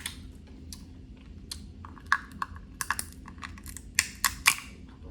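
Snow crab leg shells cracking and snapping as the meat is picked out by hand: irregular sharp clicks, a few at first, then a quick cluster of louder cracks past the middle.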